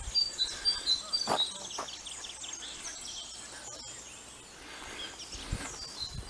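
Small songbirds singing: quick high chirps and trills, busiest in the first two seconds and again near the end, with two soft knocks about a second and a half in.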